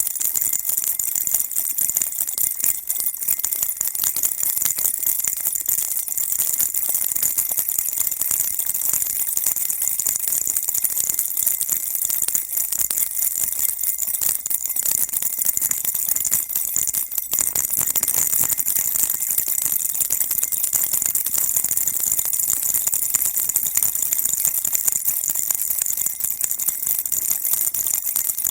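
Baby rattle shaken continuously: a dense, steady, high-pitched jingling with no pauses.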